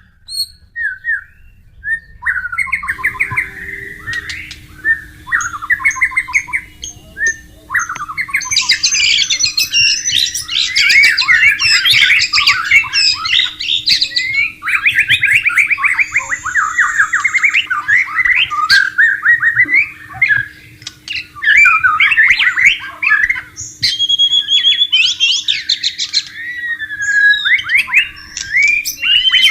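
White-rumped shama (murai batu) singing a rich, varied song of rapid whistles, trills and chattering phrases: short phrases at first, then nearly unbroken song from about eight seconds in. Underneath runs flowing water, with a steady low hum from about three seconds in.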